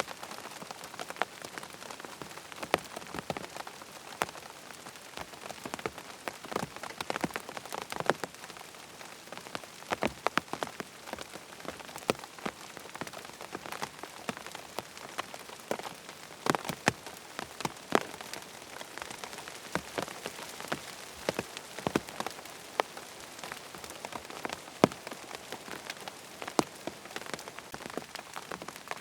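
Rain falling on a tent, a steady patter with many separate heavier drops ticking irregularly on the fabric.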